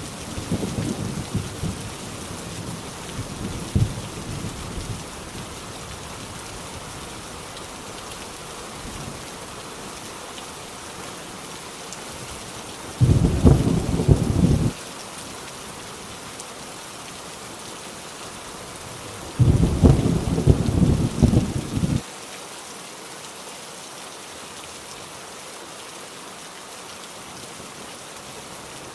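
Heavy rain pattering steadily on a rusty tin roof. Thunder rumbles at the start and dies away, then two loud rolls of thunder come about halfway through, each lasting a second or two and stopping abruptly.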